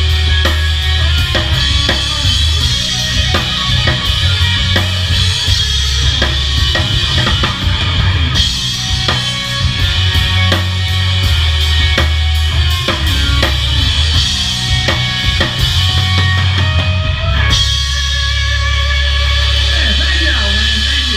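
Live band playing an instrumental passage, with a drum kit's bass drum and snare hitting steadily over sustained bass notes. After about 17 seconds the drumming thins out and a low chord is held.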